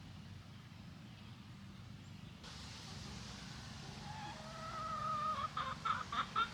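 Chickens calling: a drawn-out call, then a quick run of short clucking notes about four a second, over a low steady rumble.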